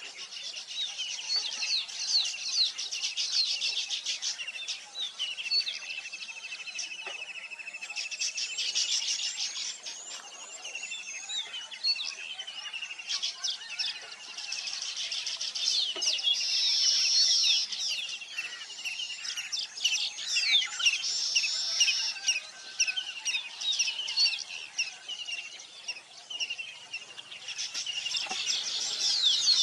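Many small birds chirping and trilling at once: a dense, unbroken chorus of high, overlapping calls.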